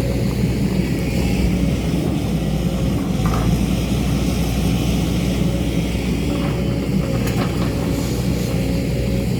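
Excavator's diesel engine running steadily under work, with a few faint knocks.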